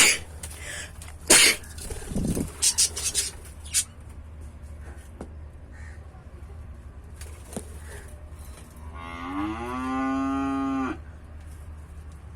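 A cow mooing once, a long call that rises at the start and then holds steady, about nine seconds in. It is preceded by a few sharp knocks and clattering in the first few seconds.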